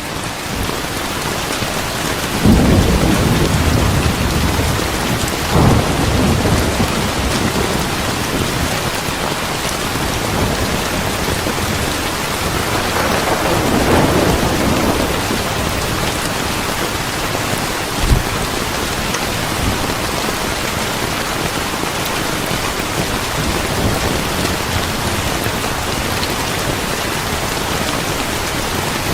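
Steady heavy rain with rolling thunder: low rumbles about two and a half seconds in and near six seconds, a longer swell around the middle, and one short sharp crack about two-thirds of the way through.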